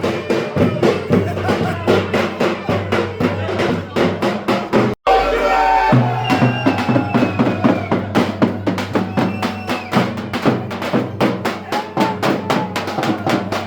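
Live Turkish folk dance music (oyun havası): a fast, steady drum beat under a wavering melody line. The music cuts out for an instant about five seconds in, then resumes.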